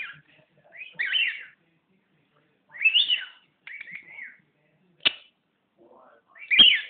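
Pet bird whistling in short warbling phrases that glide up and down in pitch, about four phrases with gaps between them. Two sharp clicks cut in, one shortly after five seconds and one just before the last phrase.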